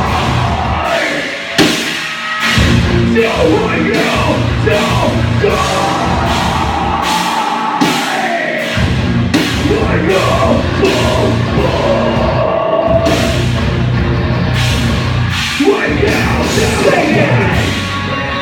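Live heavy rock band playing: steady pounding drum kit, guitar and bass, with sung and yelled vocals. The low end drops out briefly about two seconds in and again around eight seconds.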